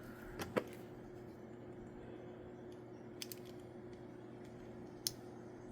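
A few short clicks and taps of small plastic miniature parts being handled and fitted together: two close together near the start, a pair a little past the middle, one near the end, over a steady low hum.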